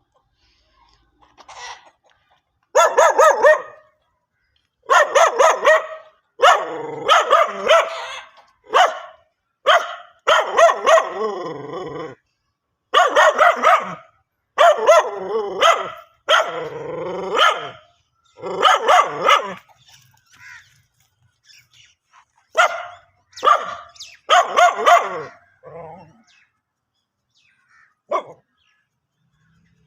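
Dog barking in repeated volleys of loud barks with short pauses between them.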